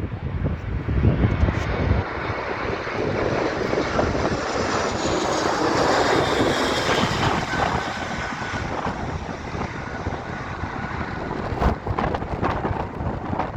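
Airliner passing on approach to land, its engines swelling to a peak about six seconds in with a high whine and then fading. Gusty wind buffets the microphone in the first couple of seconds.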